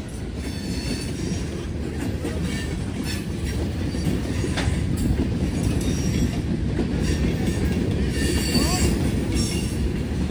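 Norfolk Southern freight cars rolling past at close range: a steady rumble of wheels on rail with clicks over the joints, and high wheel squeal that comes and goes.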